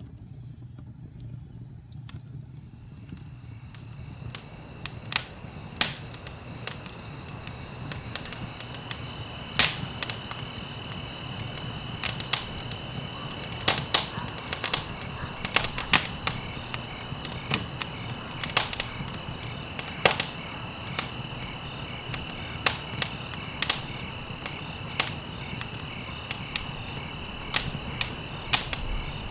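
Wood fire crackling in a fireplace, with irregular sharp pops that grow more frequent a few seconds in, over a low rumble of the flames. A steady high-pitched chirring of insects comes in about two seconds in.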